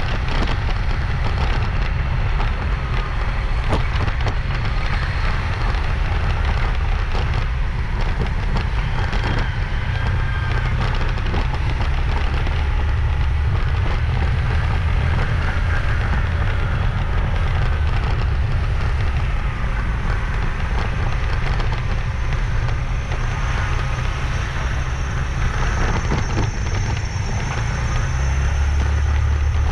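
Wind buffeting the microphone and road noise on a moving motorbike, a steady rumble with crackling underneath.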